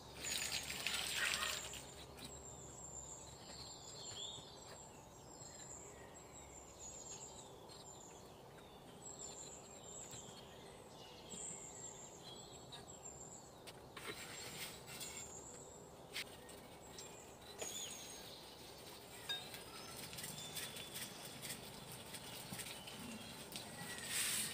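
Faint outdoor ambience around a wood cooking fire: a bird chirps short high notes over and over through the first half or more. There are a few short knocks and scrapes of cookware, and a brief louder rush of noise about a second in and again near the end.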